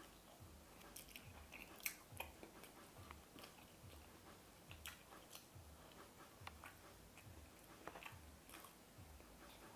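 Faint close-up chewing of a mouthful of food eaten by hand: a soft, even jaw rhythm of under two chews a second, with scattered wet clicks of the mouth. The sharpest clicks come about two seconds in and near the end.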